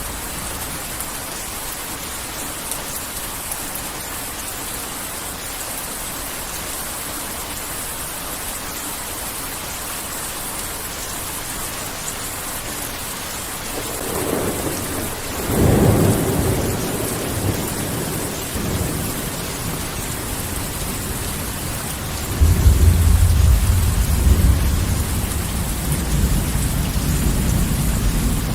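Heavy rain falling steadily, with two rolls of thunder: one building about halfway through, and a louder, deeper rumble that sets in suddenly later and rolls on to the end.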